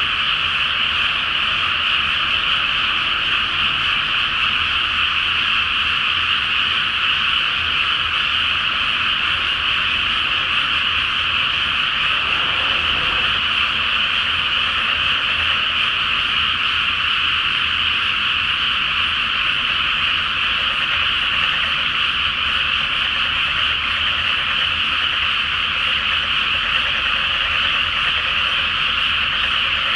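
Large chorus of frogs calling together in a flooded rice paddy: a dense, steady, unbroken mass of high-pitched croaking with no gaps.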